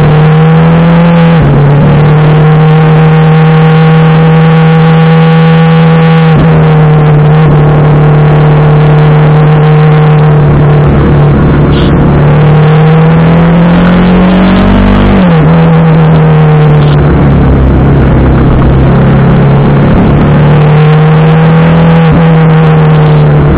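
TVS Apache RR310's single-cylinder engine running at a steady cruising speed, its note holding level for long stretches with a few brief dips, climbing about fifteen seconds in and then dropping sharply.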